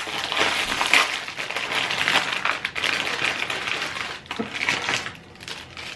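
Water boiling hard in a pot: a dense, rapid crackle of bubbling that thins out over the last couple of seconds.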